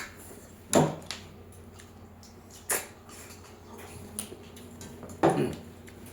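Eating sounds close to the microphone: three short, sudden mouth noises, about a second in, near the middle, and a longer one near the end.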